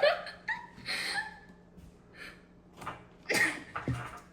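A few short bursts of a person's breath and voice, like a gasp or a stifled laugh, separated by quiet gaps; the loudest comes about three seconds in.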